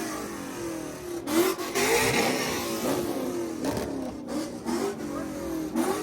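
Car engine revving repeatedly, its pitch rising and falling in several blips.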